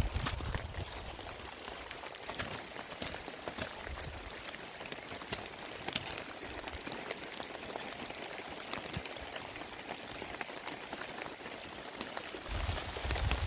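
Steady heavy rain, with many separate drops ticking sharply on nearby surfaces; one louder drop strike about six seconds in.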